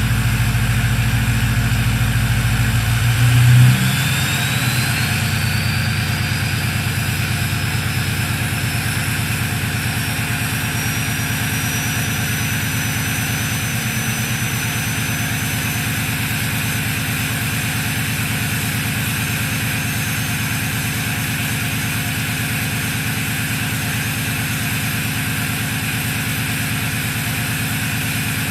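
Straight-piped 6.0 L Power Stroke V8 diesel idling rough after a cold start in sub-freezing weather, before it has warmed up and smoothed out. About four seconds in the engine note surges briefly and shifts, and a high whistle then rises slowly in pitch.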